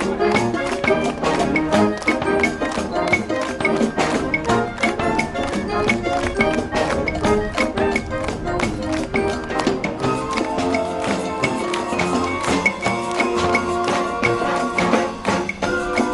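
High school brass and marching band playing a lively piece, with brass and woodwinds over a fast, steady drum beat; a new group of held notes comes in about ten seconds in.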